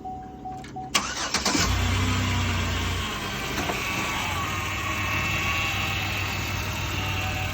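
Car engine cranking and starting about a second in, running faster for a couple of seconds, then settling to a steady idle. A repeating chime beeps until the engine cranks.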